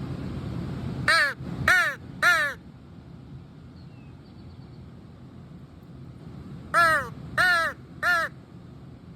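A handheld crow call blown in two series of three loud caws, a few seconds apart, plain blown notes without the throat rasp the call is meant to have.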